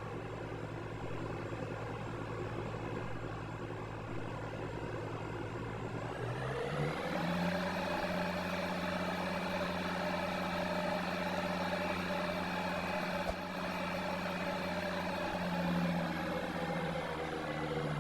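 Candy washing machine running its spin, the motor whining steadily. About six seconds in the pitch rises over a second or so as the drum speeds up, then holds steady at the higher spin speed.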